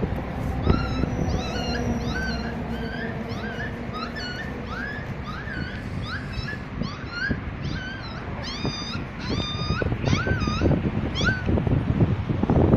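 A cat mewing over and over in short, high-pitched rising-and-falling cries, about two a second, which stop shortly before the end. Wind and handling noise rumble underneath.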